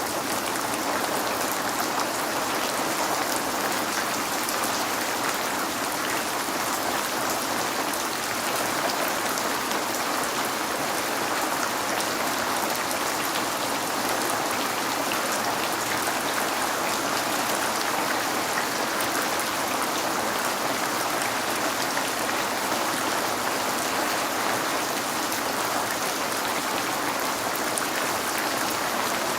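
Steady rain falling on a window, a dense even hiss with many small drop ticks.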